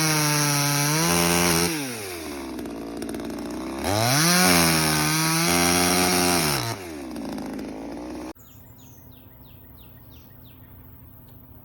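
A PROYAMA 62cc two-stroke gas chainsaw is revved to full throttle twice, each time holding high revs for a couple of seconds before dropping back to idle. The engine sound cuts off abruptly about eight seconds in, leaving quiet outdoor background with a run of short bird chirps.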